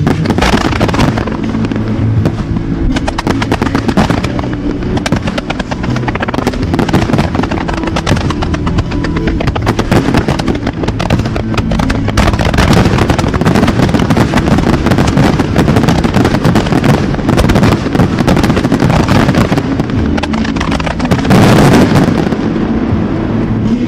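Fireworks display: a dense, continuous barrage of shells bursting and crackling in quick succession, swelling to the loudest burst of reports about three seconds before the end.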